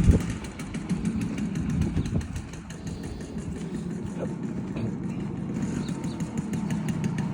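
Simson Schwalbe moped's single-cylinder two-stroke engine running steadily at low revs, with a louder burst right at the start.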